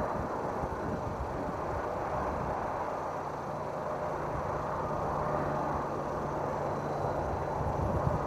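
A vehicle running steadily, with a steady low engine hum that comes in about three seconds in.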